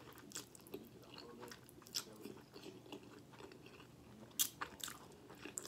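Close-miked chewing of a mouthful of chicken Alfredo pasta with broccoli: faint, wet mouth clicks and smacks, with a sharper smack a little past four seconds in.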